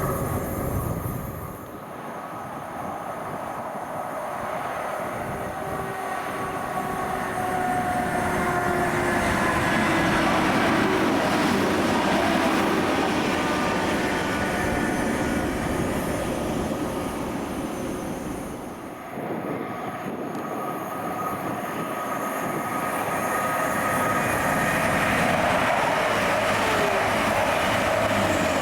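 A train running through a station: a continuous loud rail rumble with a steady whine. It drops off briefly twice, about a second and a half in and again near 19 seconds, and then builds back up.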